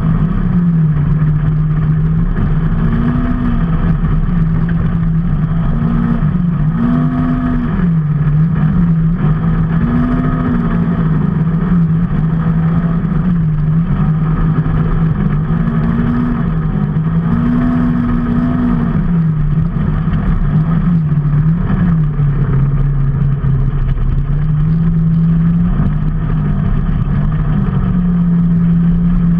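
Vehicle engine running under way, its pitch rising and dropping again and again as it speeds up and eases off, over steady road noise.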